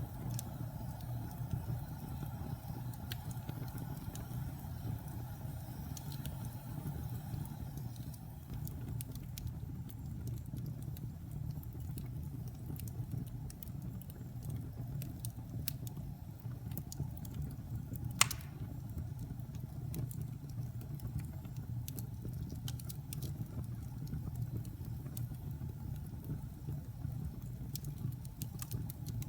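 Wood fire in a fireplace burning with a steady low rumble and scattered small crackles, with one sharp, loud pop about two-thirds of the way through.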